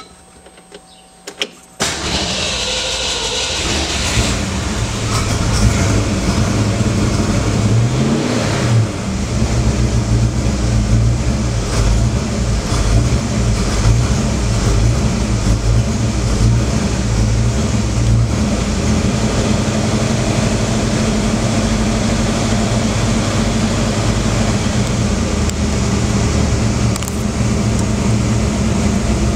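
Ford Falcon engine with its freshly reinstalled carburettor: a couple of clicks, then the starter cranks it for about two seconds before it catches and runs. It revs up briefly about eight seconds in, then settles to a steady idle.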